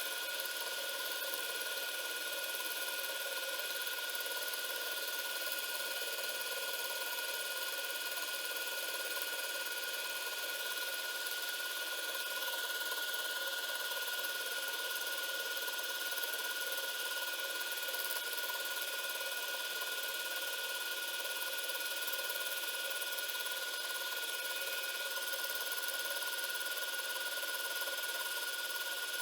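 Spindle of a home-built CNC milling machine running with a steady high whine while a compression wood end mill cuts MDF. The whine holds one pitch, with a slight rise in the higher hiss from about twelve to sixteen seconds in.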